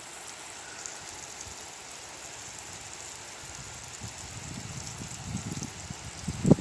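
Garden hose spraying water with a steady hiss. In the second half, gusts of strong wind rise over it as irregular low rumbles.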